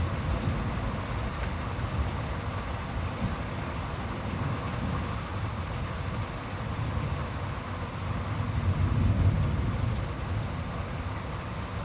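Heavy rain falling steadily during a thunderstorm, with a low thunder rumble that swells about nine seconds in.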